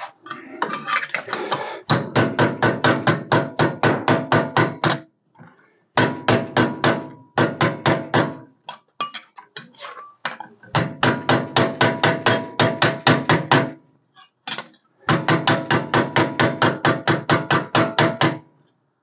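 Hammer striking cut sheet-metal patch pieces to flatten them, taking out the distortion left by cutting. Quick blows about six a second in several runs with short pauses between, each strike ringing metallically.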